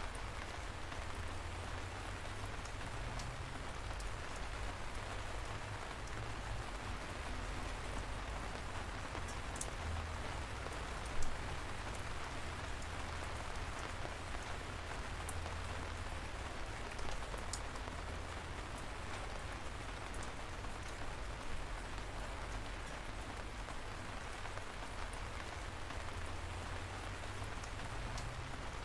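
Light, steady rain falling, with scattered individual drops ticking close by and one louder drop hit about eleven seconds in. A steady low rumble runs underneath.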